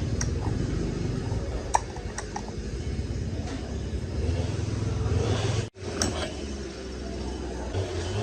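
A few sharp metallic clinks of tools and chainsaw parts being handled, over a low steady rumble. The sound drops out for an instant about two-thirds of the way through.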